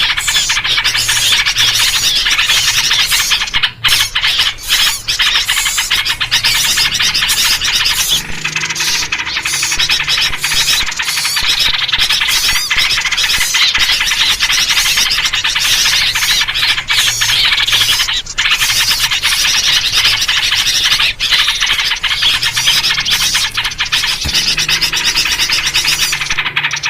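Dense, continuous chatter of many small birds calling at once, a noisy alarm-type chorus used as a lure, with yellow-vented bulbul (trucukan) calls among it.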